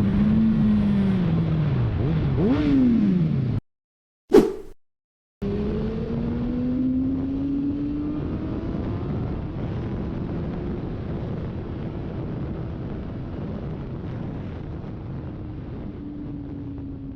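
Sport motorcycle engine revving, its pitch swinging up and down, then cutting out briefly about three and a half seconds in with one sharp loud bang. It comes back pulling under acceleration, the pitch rising steadily while the level slowly drops.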